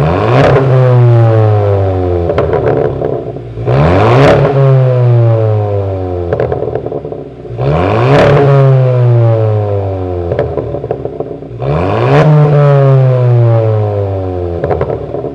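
Kia Sportage NQ5's turbocharged 1.6-litre four-cylinder, through a mid-muffler-delete and dual valved exhaust, revved four times about every four seconds, each rev rising quickly and sinking back with popping and crackling from the exhaust as it falls.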